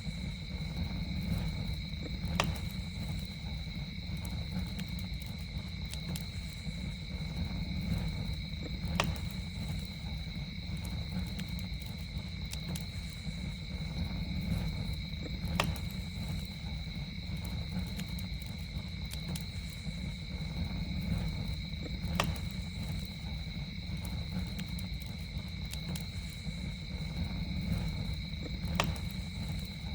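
Campfire burning with a low steady rumble and about five sharp crackling pops, one every six or seven seconds, under a steady high-pitched insect chorus with two constant tones.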